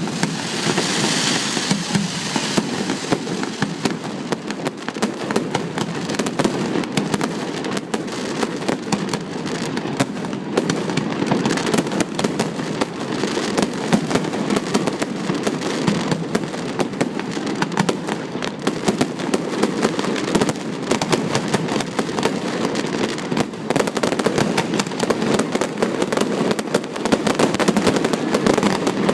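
Fireworks display: a continuous, rapid barrage of bangs and crackling, getting louder near the end.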